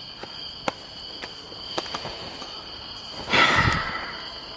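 Crickets chirping steadily, with a few scattered clicks. A little over three seconds in comes a loud, short rush of noise lasting about half a second.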